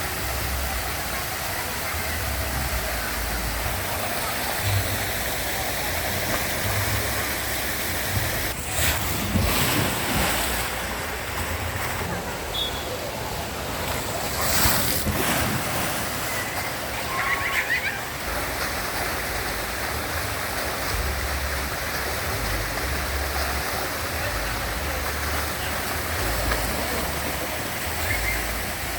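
Steady rush of running and splashing water, with two louder bursts of water noise about nine and fifteen seconds in.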